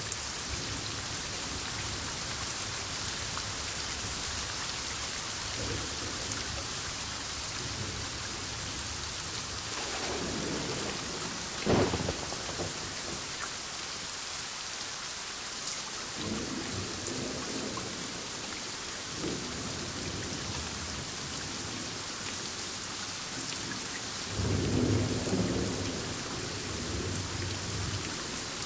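Heavy thunderstorm: steady heavy rain with repeated rumbles of thunder. A sharp thunderclap about twelve seconds in is the loudest sound, and another long rumble of thunder comes near the end.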